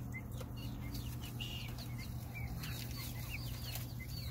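Caged birds chirping: many short, high calls scattered throughout, over a low steady hum.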